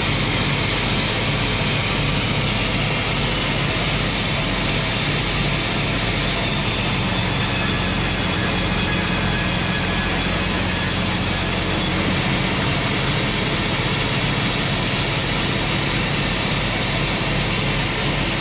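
Wood-slab sawmill machinery running steadily: a constant low engine hum under a loud, even hiss, with no pauses or changes in speed.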